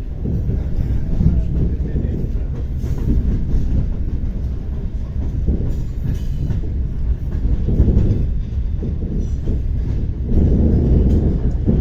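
ER9T electric multiple unit running along the line, heard from inside the passenger car: a steady low rumble from the running gear.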